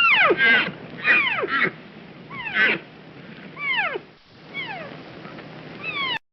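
An animal's repeated calls, a string of short cries, each falling steeply in pitch, some overlapping, until the sound cuts off suddenly near the end.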